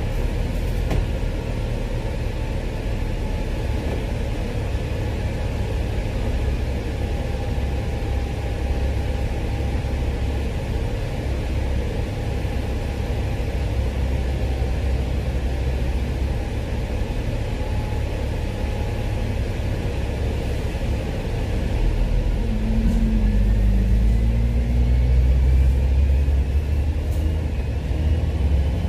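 Hong Kong bus running along the road, heard from inside: a steady low engine and road rumble. A little past twenty seconds in it grows louder, and a faint whine rises in pitch.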